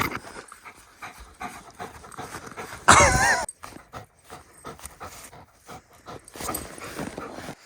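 A young German Shepherd panting hard during play, in short quick breaths. About three seconds in comes one loud, brief, high, wavering cry.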